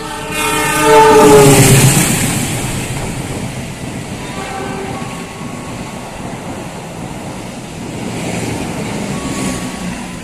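A train passing at speed, its horn sounding in the first two seconds with the pitch sliding down as it goes by, followed by the steady rumble of the passing cars on the rails.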